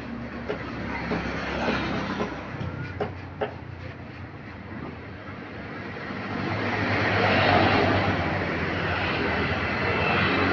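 Road traffic: a heavy vehicle's engine drone with a few light knocks. The noise swells about six seconds in as a large vehicle passes close by.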